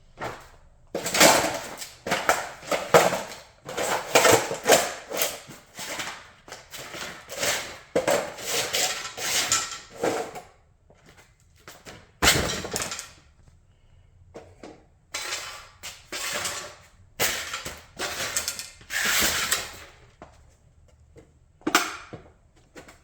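Model Audi race car being crushed: repeated cracking and crunching as it breaks apart. The crunching comes in runs, about a second in to ten seconds, again from about fifteen to twenty seconds, with one sharp crack about twelve seconds in and another near the end.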